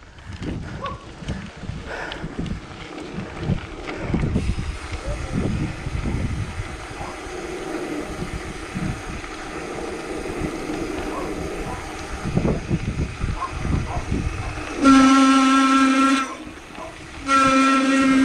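Wind buffeting the microphone in uneven gusts, then a horn sounds two long, steady blasts a little over a second apart near the end, louder than everything before.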